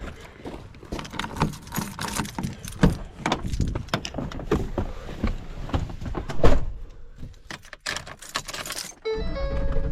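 Irregular jangling, clicks and knocks of keys and things being handled, with a louder knock about six and a half seconds in. Music comes in about nine seconds in.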